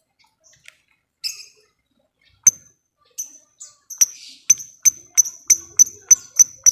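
Lovebird calling: a few scattered sharp chirps, then from about four seconds in a fast, even run of loud, high-pitched chirps at about three a second, the repeated 'ngekek' chatter.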